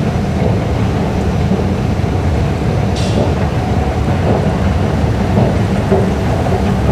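Singapore MRT Circle Line train running through a tunnel, heard from aboard as a steady low rumble, with a brief high hiss or squeal about three seconds in.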